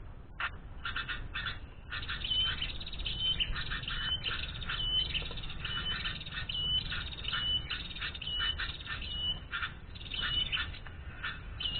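Bird calls: a short high note repeated about every half second, mixed with fast harsh chattering, growing busier about two seconds in.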